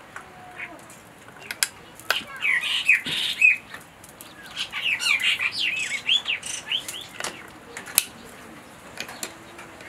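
Small birds chirping in quick runs of short, arching calls, densest between about two and seven seconds in. A few sharp clicks are scattered among them.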